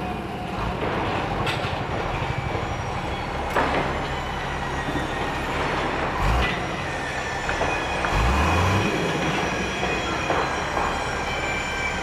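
Heavy vehicle rumbling steadily, with a thin high metallic squeal and a few clanks.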